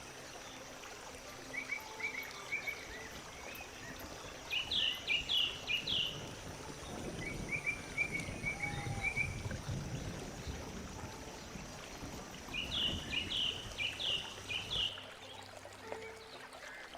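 Birdsong: short, rapid phrases of chirps, repeated several times, over a soft low rushing noise that swells in the middle. A steady high-pitched whine runs underneath and stops near the end.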